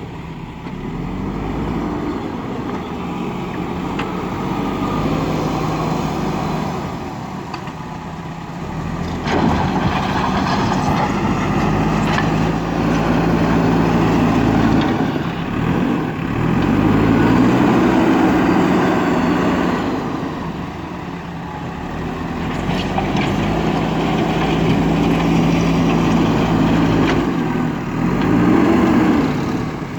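Diesel engine of a JCB backhoe loader working, its pitch rising and falling repeatedly as it revs under load between steady stretches, with a few short knocks.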